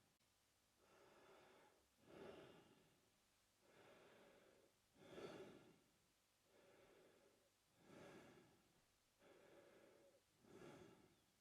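A man breathing slowly and evenly through his mouth, about four full breaths. Each breath is a softer, drawn-out part followed by a louder, shorter one.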